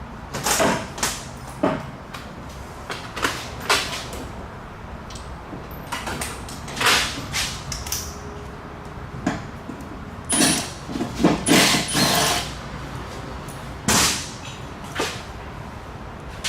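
Irregular metallic clanks and knocks of hand tools and metal parts being handled: about a dozen sharp clatters at uneven spacing, a few of them ringing briefly.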